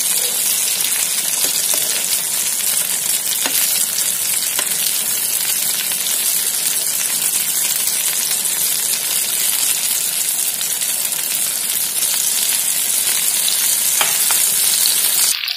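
Stuffed pointed gourds (potol) sizzling steadily in mustard oil in a frying pan, with a few light clicks of a steel spoon against the pan as they are turned over.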